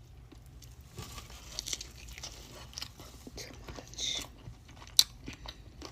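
Eating: crunchy bites and chewing of fried fast food, with scattered clicks and crackles and one sharp crunch about five seconds in.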